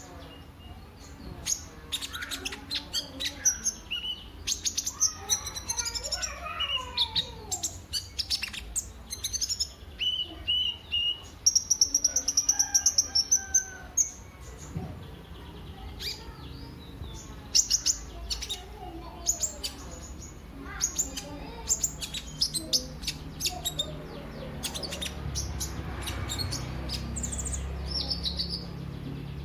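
Kolibri ninja sunbird singing: a fast, varied run of high chirps, short trills and whistled notes, with a loud buzzy trill about halfway through.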